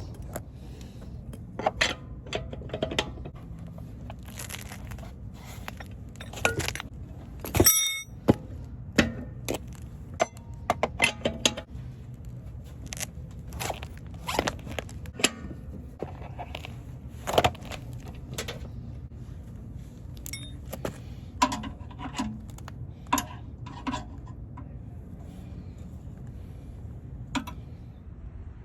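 Hand tools and metal car parts clinking, knocking and scraping in an irregular run of sharp hits while a car's wheel and brake area is taken apart by hand. The hits thin out near the end.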